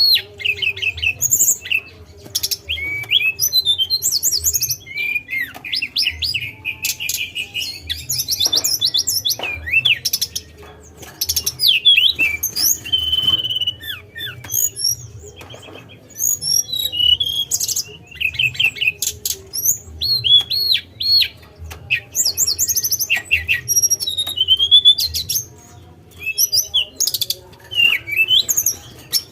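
Tledekan songbird singing a fast, busy song of high chirps, whistled glides and short trills, in bursts of a second or two with brief pauses between. A faint steady low hum runs underneath.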